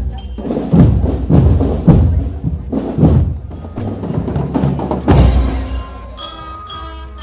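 Marching drum band playing: bass and snare drums beat a steady pulse of about two strokes a second, a loud crash comes about five seconds in, then ringing bell-like pitched notes sound over softer drumming.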